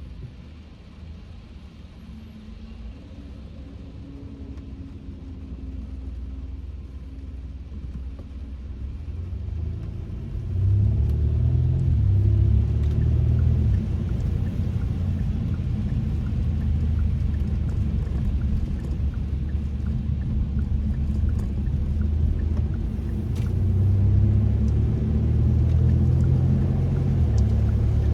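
Low rumble of a Kia K5 (DL3) sedan driving: road and engine noise that builds gradually, then grows clearly louder about ten seconds in and stays loud.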